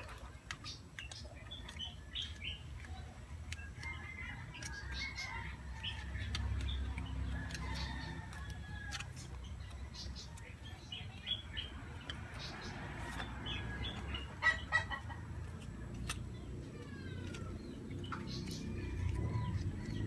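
Birds calling in the background, short chirps with a few falling calls about three-quarters of the way through, over a low hum. Soft rustling and clicks come from leatherette being handled.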